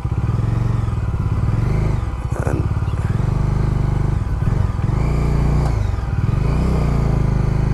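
Bajaj Dominar 400's single-cylinder engine pulling at low speed through mud, its revs rising and falling several times as the heavy bike's rear tyre slips.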